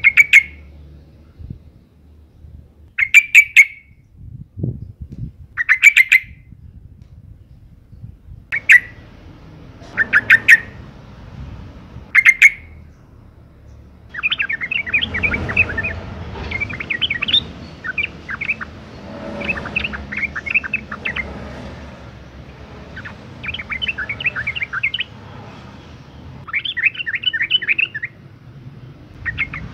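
Yellow-vented bulbul (trucukan) calling: short bursts of rapid chattering notes every two to three seconds, then from about halfway a denser, longer run of chattering. It is given as a female's call in breeding condition, used as a lure to get males singing.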